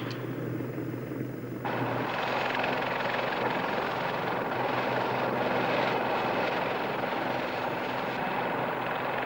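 Westland Lynx twin-turboshaft helicopter in flight: steady rotor and turbine noise with a low hum. It gets suddenly louder and fuller about a second and a half in.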